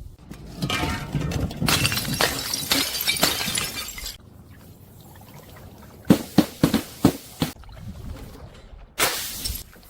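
Glass bottles shattering, with liquid splashing out: a dense crash of glass and spill lasting about three and a half seconds. About six seconds in comes a run of sharp knocks and clinks, and a short crash near the end.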